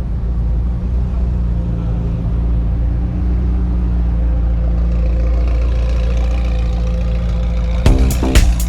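A car engine idling steadily with a low hum. Near the end, music with a hard beat cuts in.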